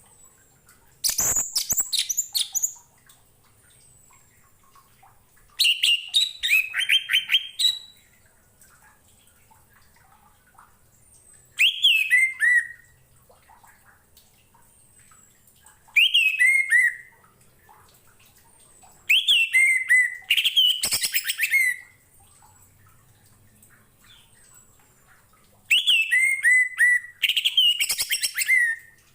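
Orange-headed thrush (anis merah) singing: six loud phrases of quick, clear notes that fall in pitch, each phrase a second or two long, with pauses of a few seconds between them.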